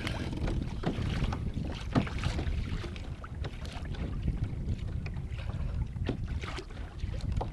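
Wind buffeting the microphone as a steady low rumble, with a few light knocks and water sounds around the kayak.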